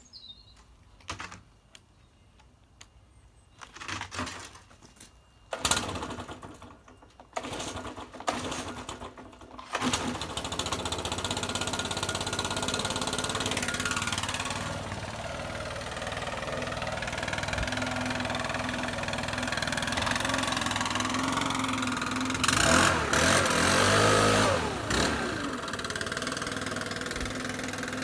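Stihl BR600 backpack leaf blower's two-stroke engine being pull-started on test after new fuel lines were fitted. There are several short pulls on the starter cord, then it catches about ten seconds in and runs steadily. Near the end it is revved up once and falls back.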